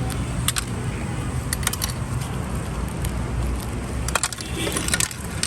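Scattered sharp metallic clicks and clinks over a steady low rumble of street traffic.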